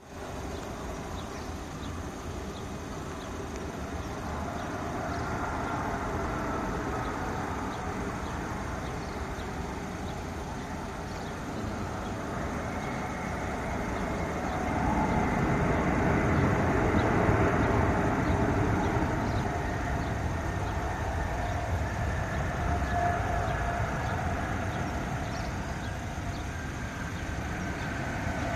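Airbus A380-841's Rolls-Royce Trent 970 turbofan engines as the airliner comes in to land: a broad jet rumble that swells to its loudest about halfway through, with a high fan whine falling slowly in pitch.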